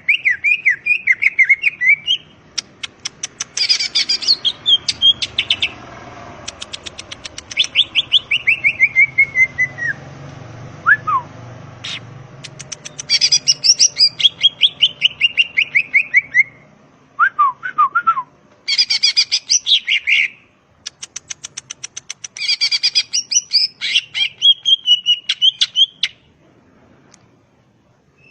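Green leafbird (cucak ijo) singing a long, varied song: rapid trains of clicking notes mixed with fast runs of chirps that slide down in pitch, broken by a few short pauses. The song falls mostly quiet near the end.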